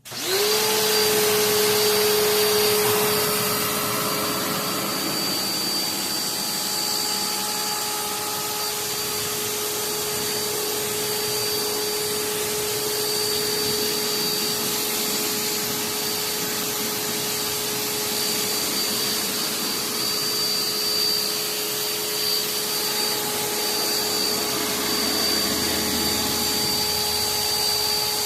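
Pressure washer running and spraying: a steady machine whine under a loud, even hiss of water spray.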